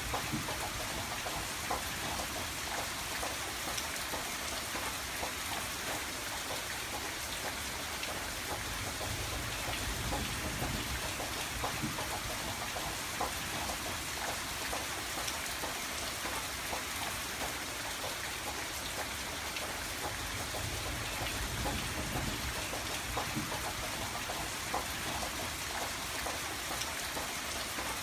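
Steady rain on a window pane, with many single drops ticking against the glass over a dense patter, and a low rumble that swells and fades a few times.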